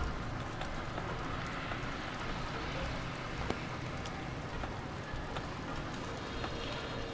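Steady rain with scattered sharp ticks of drops striking nearby surfaces, one a little louder about three and a half seconds in.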